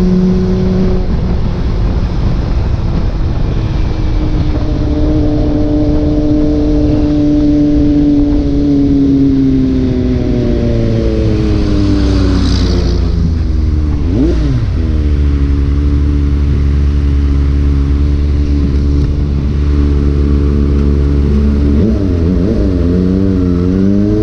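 Motorcycle engine running on the road. Its pitch falls slowly as it slows, drops and jumps back sharply about fourteen seconds in, holds steady, then rises and falls repeatedly near the end as the throttle is worked.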